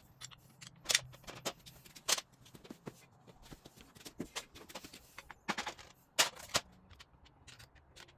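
Irregular metallic clicks and knocks of hand tools working on a motorcycle engine's metal parts, with a few sharper knocks standing out.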